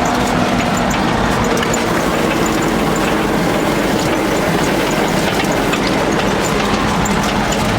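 ZIL-131 six-wheel army truck's V8 petrol engine running steadily, with a constant clatter of small rattles and clicks.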